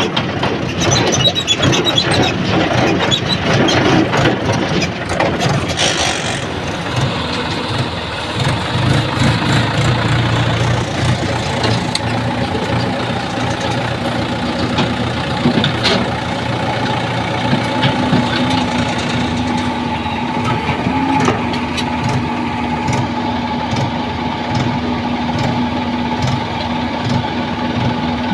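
Heavy construction machinery's diesel engine running. The first several seconds are noisier and clattery, then the engine settles into a steady drone.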